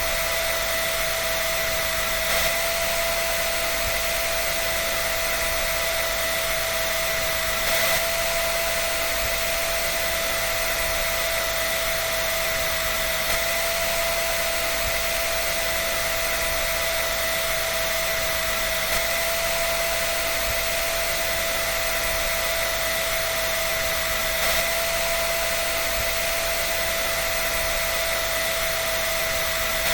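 Dryer running steadily: a constant rush of air with a steady whine on top.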